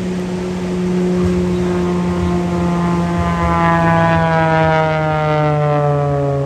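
A stunt plane's engine passing overhead, its steady droning note dropping slowly in pitch as it goes by, loudest around the middle.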